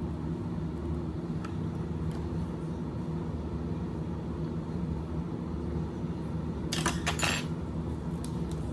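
Steady low drone of a moving vehicle, heard from inside it. A brief rattling clatter comes about seven seconds in.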